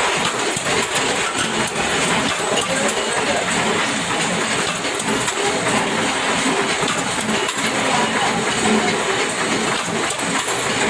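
Lock-factory machinery running steadily, with a dense stream of small clicks and knocks from metal parts.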